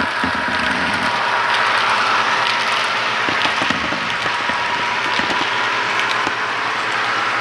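HO scale model train running on the layout track: a steady rolling hiss with many small irregular clicks.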